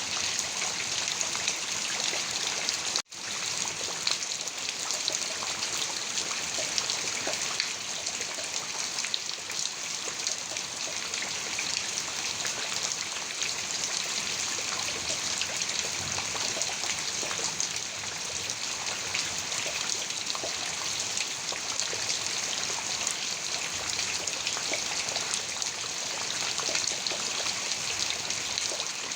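Heavy rain falling: a steady hiss dotted with the ticks of individual drops. The sound cuts out for an instant about three seconds in.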